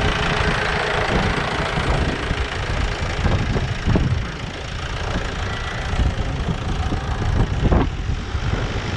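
Tractor engine running steadily, with a few short low thumps about four and eight seconds in.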